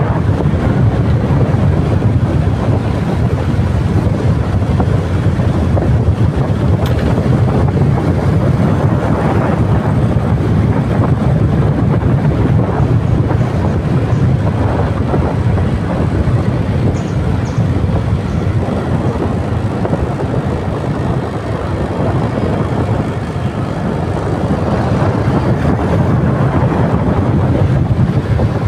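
Motorcycle running steadily on the move, heavily overlaid by wind buffeting the microphone, a loud low rumbling rush that eases a little about three quarters of the way through.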